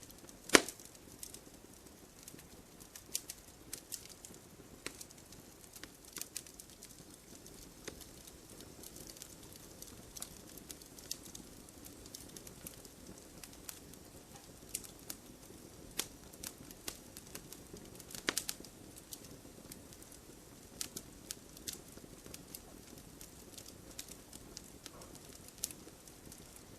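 Firewood burning, crackling with sharp irregular pops over a low steady rush of flame, with one loud snap about half a second in and a cluster of pops around eighteen seconds.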